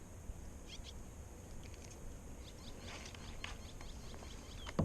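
Faint, scattered bird chirps over a low steady outdoor background.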